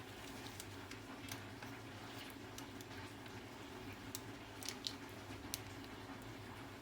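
Faint scattered light clicks and taps, a few short ones spread irregularly, over a steady low hum.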